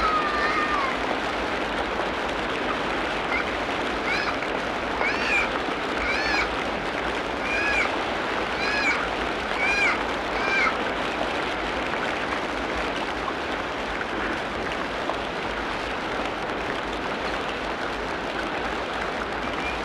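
Tropical rainforest ambience: a steady, dense hiss of rain, water or insects, with an animal calling about eight times, roughly once a second, in short arched notes that rise and fall in pitch near the middle of the stretch.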